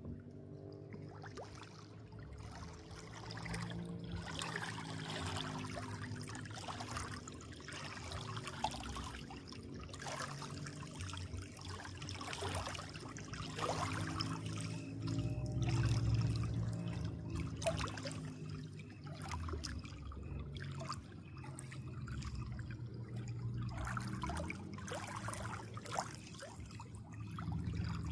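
Water trickling and gurgling continuously, with many small splashes and drips, a little louder around the middle.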